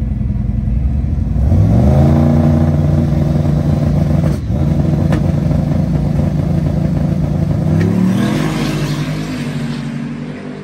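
A drag-racing vehicle's engine revving and accelerating hard: its pitch climbs about two seconds in and holds high with a brief break near the middle. Then the pitch drops and the sound fades away near the end.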